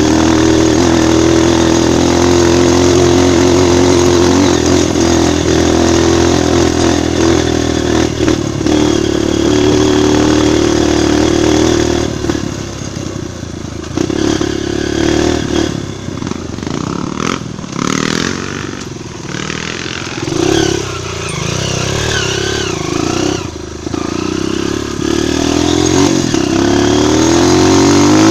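Trail motorcycle's single-cylinder four-stroke engine running at a steady speed. About twelve seconds in, the revs begin rising and falling as the throttle is worked, and the sound is somewhat quieter. Near the end it settles back to a steady, louder run.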